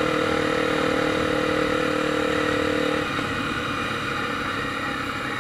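Motorcycle engine running steadily while riding, with wind and road noise; its steady engine tone falls away about three seconds in, as the throttle eases.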